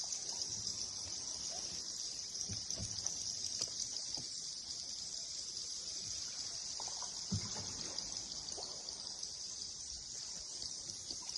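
River-cave ambience: a steady high-pitched hiss, which the uploader puts down to bats, over water trickling, with a few soft low knocks.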